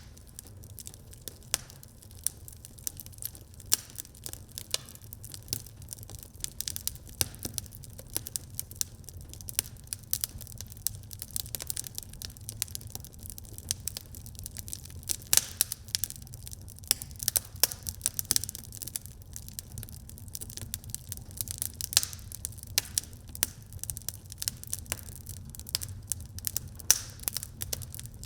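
Wood fire burning in a fireplace, crackling with frequent irregular pops and snaps over a low steady rumble.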